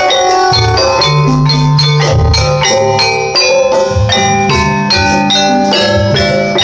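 Javanese gamelan music: struck metallophones ringing out a fast, steady stream of notes over low-pitched strokes beneath.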